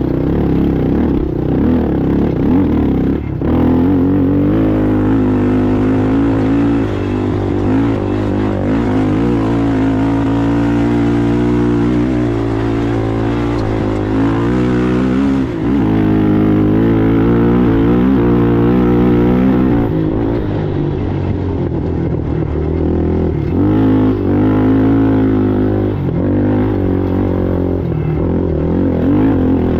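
Racing ATV engine running hard, its pitch repeatedly rising and falling with the throttle.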